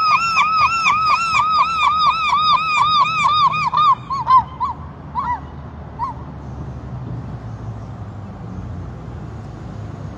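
Gull calling in a fast run of repeated sharp notes, several a second, that breaks up into a few scattered calls and stops about six seconds in; a call claiming its spot. A low steady hum is left after it.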